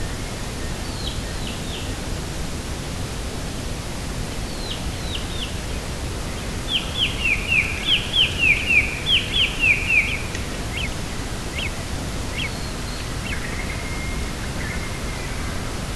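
A small bird calling in quick downward-sweeping chirps: two groups of three early, then a faster, louder run of them in the middle, and scattered shorter notes afterwards, over a steady rushing outdoor noise.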